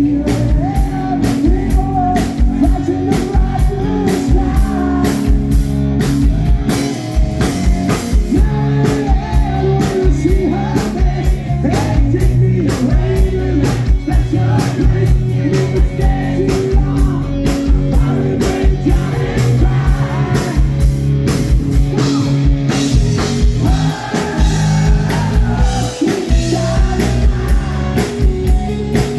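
Live rock band playing: drum kit keeping a steady beat, guitar, and a singer.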